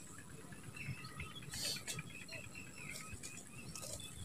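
Small birds chirping faintly over low outdoor background noise, with a brief rustle about a second and a half in.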